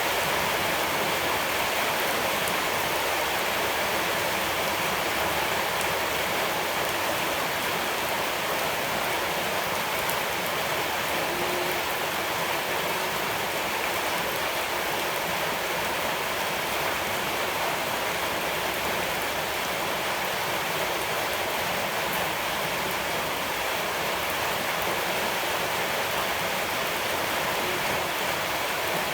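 Steady, unbroken wash of water noise with no separate events.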